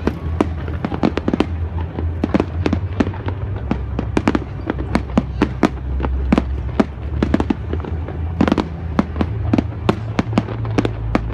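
Fireworks display: a rapid, continuous string of sharp bangs and cracks, several a second, over a steady low rumble.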